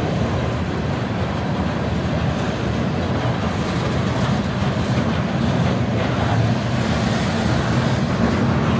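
A train rolling past with a steady low rumble and rail noise that does not let up.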